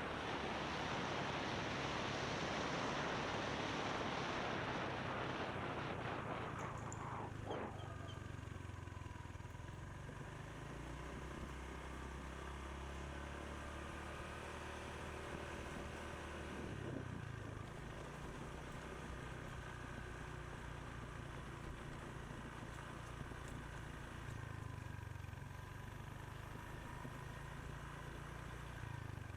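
Motorbike being ridden: a loud rush of wind and road noise for the first six seconds or so. It then gives way to the engine's low, steady hum with far less wind.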